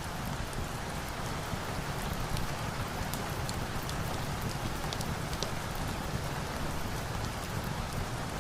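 Steady rain hissing evenly, with scattered sharp pops from a crackling fire.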